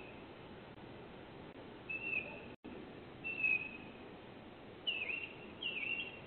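A bird calling four times in short, high chirps; the last two dip in pitch. Under them runs the faint steady hiss of a doorbell camera's microphone, which drops out briefly after the first chirp.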